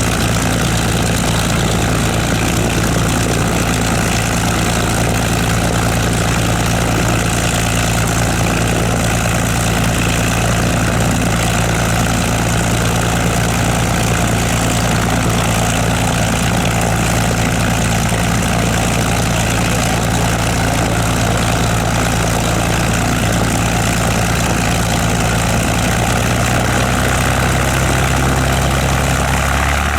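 Piston propeller aircraft engine running steadily at low power, like a warbird idling on the ground; its note shifts lower about four seconds before the end.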